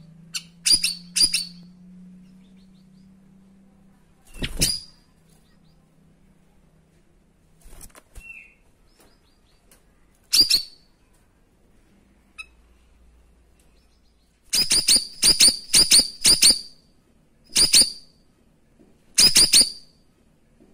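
Cucak rawis (siri-siri) songbird giving loud, very short high-pitched calls, its 'tembakan' shots: single notes a few seconds apart, then a quick run of about six in a row, then two more spaced out near the end.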